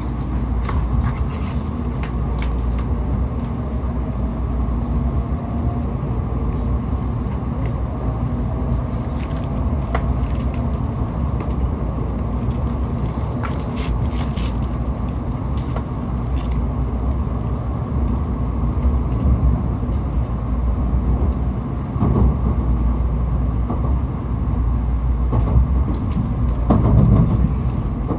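Tokaido Shinkansen train running, heard from inside the passenger car as a steady low rumble. A faint rising whine comes in a few seconds in, and there are occasional light clicks.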